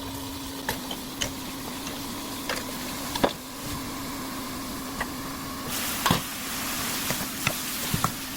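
Pork and burdock root stir-frying in a pan: sharp knocks and scrapes of a spatula against the pan over a low sizzle, with the sizzling growing louder about six seconds in. A steady hum runs underneath.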